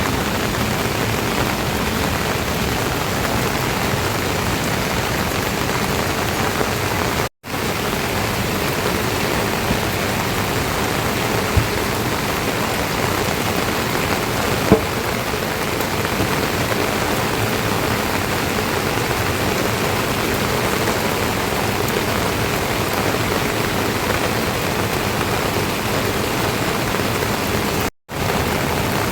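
Steady rain falling, an even hiss that breaks off for an instant twice.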